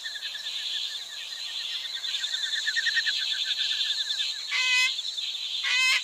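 Nature chorus of calling insects: a steady high chirring with a fast pulsing trill beneath it. Two short, clear calls stand out, about four and a half and six seconds in.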